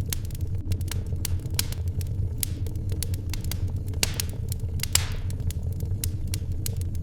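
Wood fire crackling in a fireplace: frequent sharp snaps and pops over a steady low rumble, with one louder pop and a short hiss about five seconds in.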